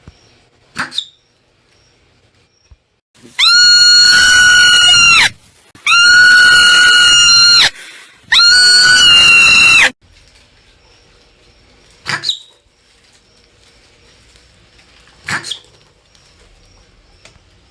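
Marmot giving three long, loud, high-pitched calls of about two seconds each in quick succession, with single short, sharp chirps about a second in and three more spread through the second half.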